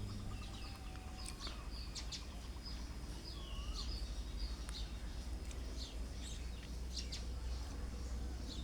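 Birds chirping and whistling in many short calls and pitch glides, over a low steady hum.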